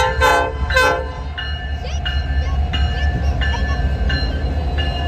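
A locomotive's Nathan P5 five-chime air horn, high-pitched, sounding two short blasts in the first second. A bell then rings steadily about twice a second over the low rumble of the passing train.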